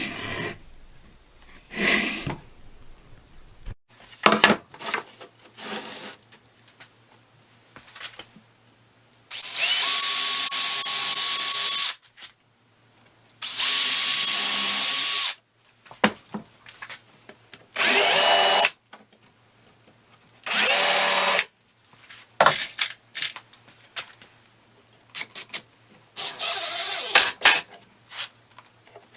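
Cordless drill driving screws into wood: four runs of the motor, each lasting one to three seconds, with clicks and knocks of handling the workpieces between them.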